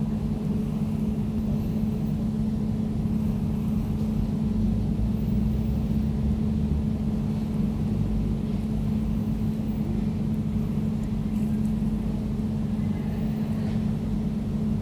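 Air conditioner running steadily: a constant low hum with one steady tone and a rumble beneath it.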